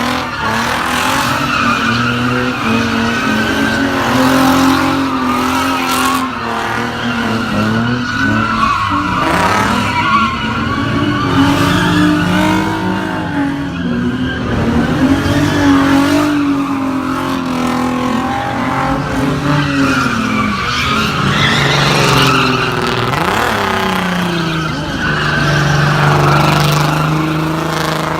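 A car engine revving while its tyres squeal and skid without a break; the engine note wavers up and down and settles to a lower, steadier pitch near the end.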